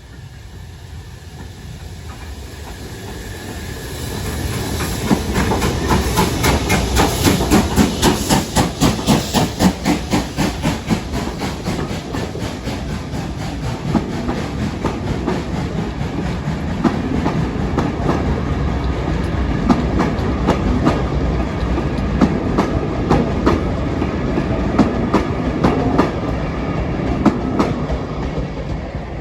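A steam train led by BR Standard Class 5 locomotive 73082 'Camelot' passes close by. Its wheels clatter over the rail joints in a quick rhythm, loudest from about five to twelve seconds in, then the carriages roll past with steady rumbling and scattered clacks.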